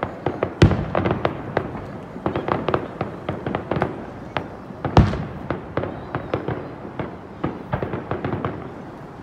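Aerial fireworks display: a rapid, irregular series of bangs and pops from shells bursting, with two loudest booms, one under a second in and one about five seconds in.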